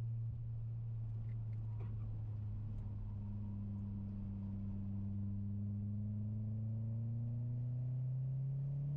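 Mitsubishi Lancer Ralliart's turbocharged 2.0-litre four-cylinder engine heard from inside the cabin under way: a steady drone that climbs slowly in pitch over the second half as the revs build.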